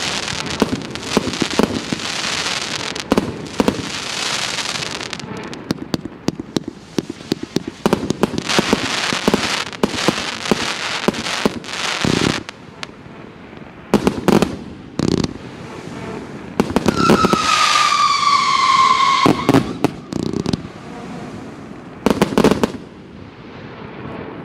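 A 160-shot mixed-calibre firework battery firing a rapid run of shots: sharp bangs with hissing, crackling bursts. About 17 seconds in, one shot whistles for about two seconds, its pitch falling slowly. The barrage stops shortly before the end.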